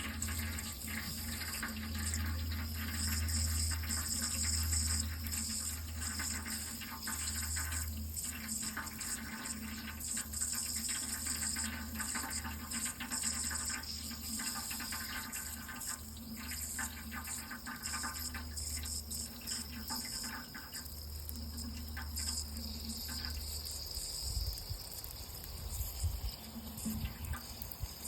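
Water running steadily, an even rushing hiss with a low steady hum beneath it; the hiss thins out somewhat over the last several seconds.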